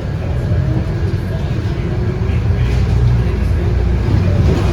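Scania K230UB bus's 8.9-litre five-cylinder DC9 diesel engine heard from inside the bus, a deep steady rumble that grows gradually louder as the bus drives.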